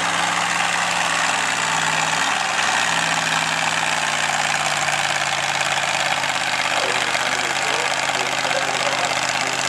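Farm stock tractor's diesel engine running steadily, its pitch dipping briefly about two seconds in and then recovering.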